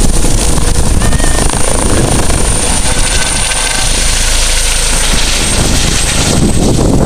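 Helicopter running close by: a loud, steady rush of rotor noise with a thin, high turbine whine throughout.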